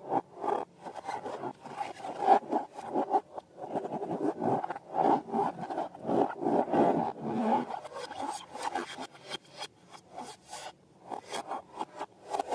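Hands rubbing and squeezing rubber balloons and slime, a run of quick, irregular rubbing strokes with a brief lull near the end.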